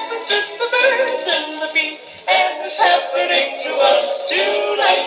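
Pop music playing from a 1960s vinyl single: a wavering melody line moving in short phrases over band accompaniment.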